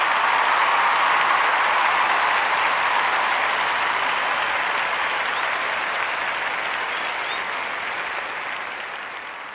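Crowd applause, steady and then fading out gradually over the last few seconds.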